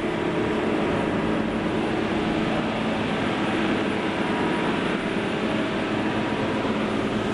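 Fishing boat's engine running steadily underway under load, towing another boat: an even drone with a few steady low hums, mixed with rushing noise.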